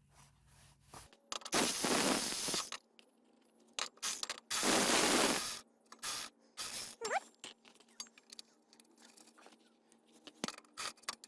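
Small metal hardware, bolts and washers, clinking as it is handled, with two longer scraping noises of about a second each.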